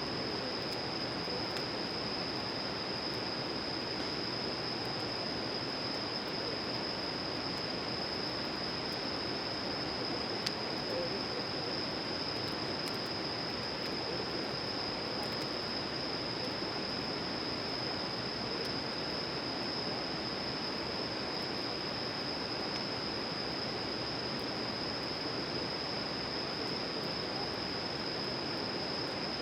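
Steady outdoor ambience at a campsite: an even rushing noise like running water, a constant high thin tone, and a few faint ticks.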